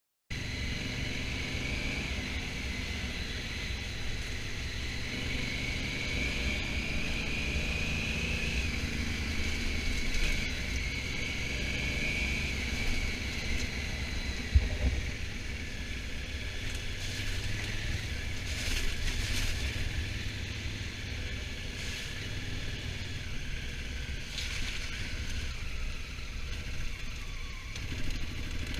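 Honda Africa Twin motorcycle under way, a steady low rumble with a faint wavering whine, and a single sharp knock about halfway through.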